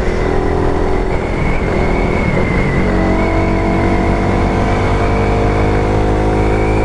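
Suzuki Raider 150 Fi's single-cylinder four-stroke engine pulling uphill under load, over wind rumble on the microphone. The revs break and drop about two and a half seconds in, then climb slowly and steadily.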